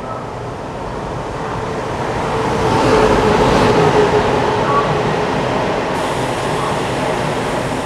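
Taiwan Railways E1000 push-pull Tze-Chiang express passing along the platform. It grows louder to a peak about three to four seconds in as the electric power car goes by with a steady whine, then its coaches roll past at a steadier, lower level.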